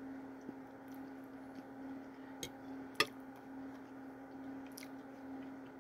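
Quiet chewing of a spoonful of sausage and gravy with a few faint mouth ticks and one sharp click about three seconds in, over a steady low hum.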